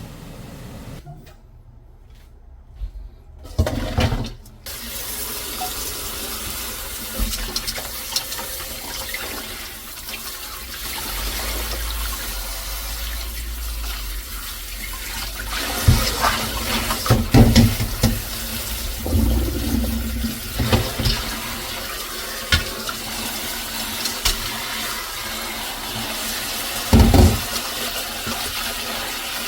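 Water running steadily from a kitchen tap into a sink, with several knocks and clatters of dishes or utensils in the middle and near the end.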